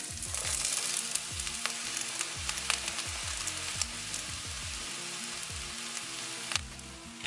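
Diced onion and vegetables sizzling in hot oil in a wok, a steady hiss with small crackles that eases near the end. Background music with a steady beat plays underneath.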